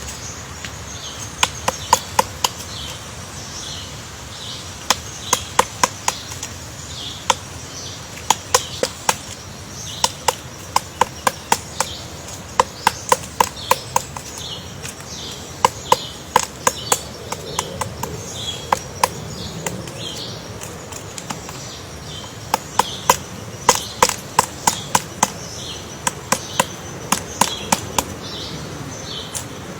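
Woodpecker pecking into wood while excavating its nest hole: sharp knocks in short quick runs of two to four, with pauses between. A faint high call repeats about twice a second in the background.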